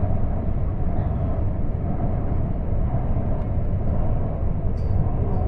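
Interior running noise of a CAF AS-14 metro train under way between stations: a steady low rumble, with a few faint short high ticks near the end.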